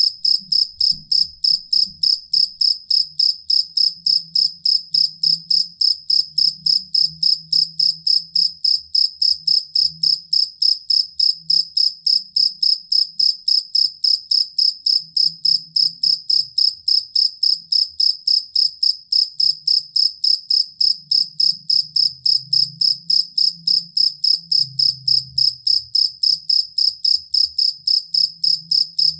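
Field cricket chirping steadily, short high-pitched chirps at about three a second in an even, unbroken rhythm.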